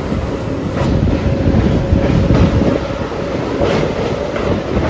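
A diesel multiple unit (DMU) passenger train running along the track, heard from inside the coach by an open window: a steady rumble of wheels on rails with a faint steady hum.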